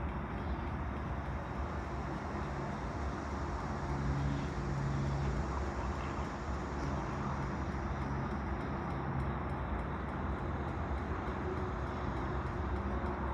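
Steady low engine rumble with a low hum, swelling a little about four seconds in.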